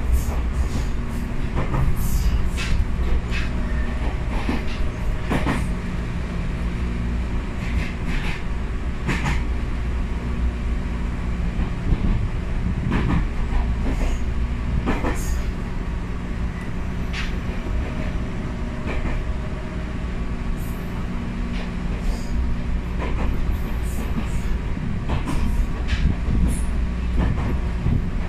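Running sound inside a Ryutetsu 5000-series electric commuter car, an ex-Seibu New 101 series train, at cruising speed. A steady rumble with a low hum runs throughout, broken at irregular intervals by the clack of the wheels over rail joints.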